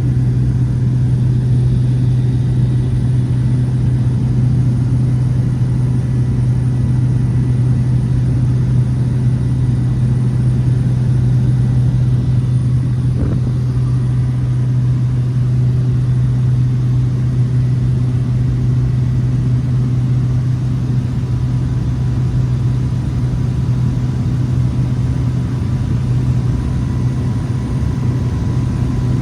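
Steady drone of a Cessna 208 Caravan's single Pratt & Whitney PT6A turboprop engine and propeller, holding an even level throughout, with a faint high whine above the low drone.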